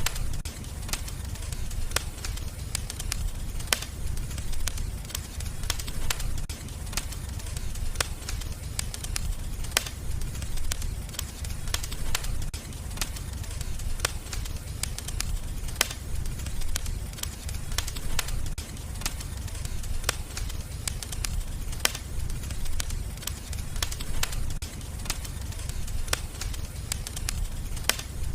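Wood fire crackling in a fireplace: frequent sharp pops and snaps at irregular intervals over a steady low rumble of the flames.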